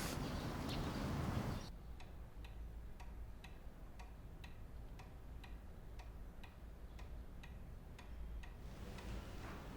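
Outdoor background noise cuts off suddenly less than two seconds in. Then a clock ticks steadily, about two ticks a second, in a quiet room.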